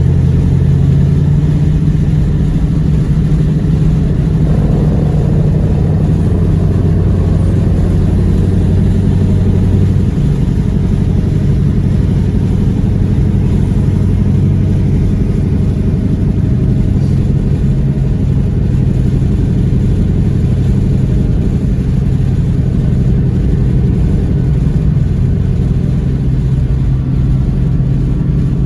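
Supercharged 5.2-litre V8 of a 2020 Shelby GT500 running loud and steady at a near-constant engine speed, with a slight change in its note about ten seconds in.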